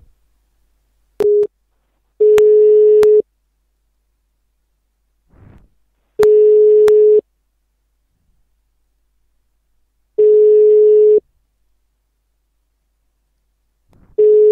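Telephone ringback tone on a Skype call to a Belgian number: a steady mid-pitched beep about a second long that repeats every four seconds, four times, after a short blip about a second in. The line is ringing at the far end and has not been answered.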